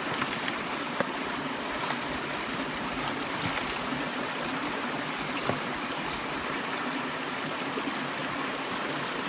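Creek water running steadily, with a few faint clicks now and then.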